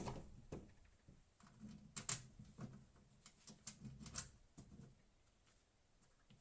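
Scattered light clicks and small taps, the sharpest about two seconds in, dying away to near quiet over the last second or so.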